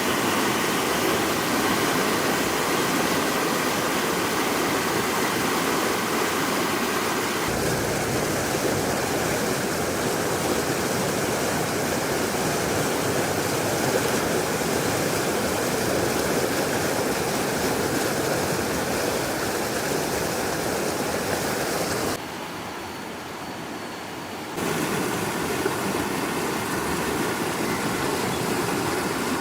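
Steady rushing of flowing water. The sound changes abruptly about seven seconds in and drops to a quieter, duller stretch of about two seconds three quarters of the way through.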